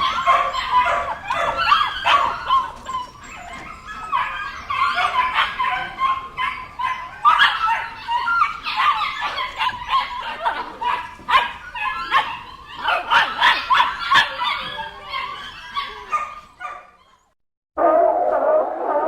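Dogs barking and yipping in quick, overlapping calls, mixed with whimpers, fading out after about sixteen seconds. After a brief silence, a different, steady sound begins near the end.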